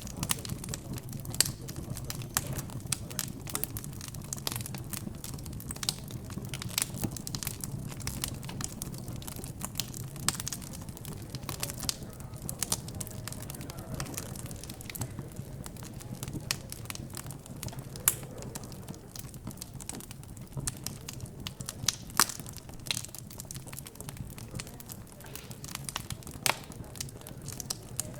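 Wood fire crackling in a fireplace, with irregular sharp pops, a few much louder than the rest, over a low steady murmur of background chatter.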